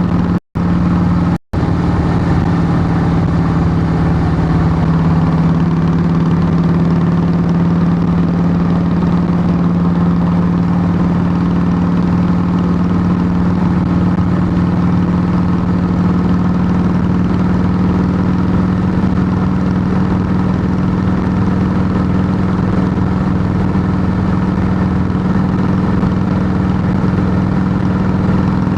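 Harley-Davidson Softail Heritage Classic's air-cooled V-twin idling steadily through Samson fishtail true-dual exhaust pipes, loud and raw. The sound cuts out twice for an instant in the first couple of seconds.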